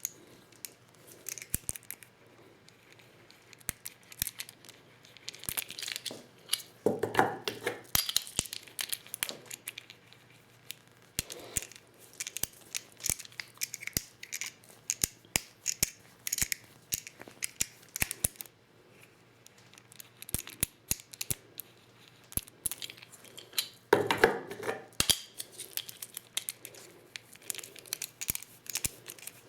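Clicking, rattling and tapping of 12-gauge shotgun shells and a Lee Loader hand-reloading kit being worked, with two louder knocks about seventeen seconds apart.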